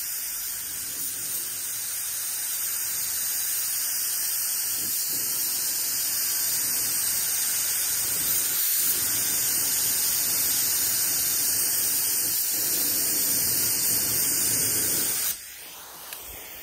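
Steady loud hissing spray that cuts off abruptly near the end.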